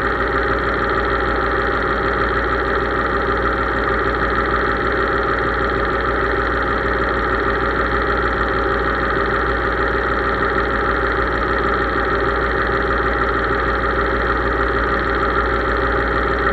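Case IH 3220 tractor's diesel engine running at a steady speed, an even drone that holds the same pitch throughout.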